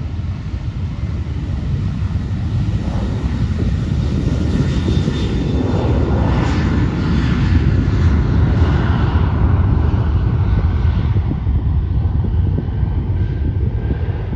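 Jet airliner's engines at takeoff thrust: a loud, heavy rumble that grows louder to a peak about halfway through, then eases slightly.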